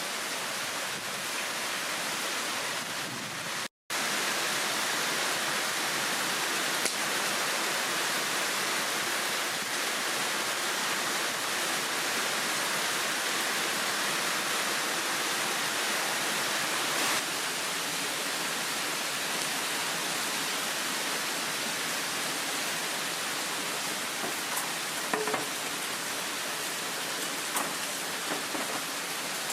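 Heavy downpour: a steady hiss of rain, broken by a brief silent gap about four seconds in, with a few light ticks near the end.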